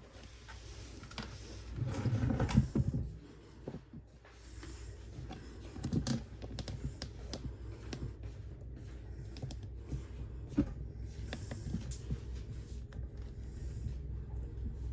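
Irregular small clicks and knocks of hands working on the furnace's water-level sight-glass fittings, over a low steady hum, with a louder clatter about two seconds in.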